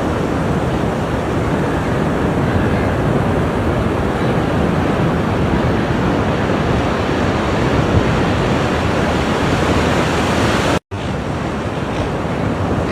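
Steady surf of ocean waves washing on the shore, a continuous hiss and rush of water. The sound drops out for an instant about eleven seconds in, at an edit cut.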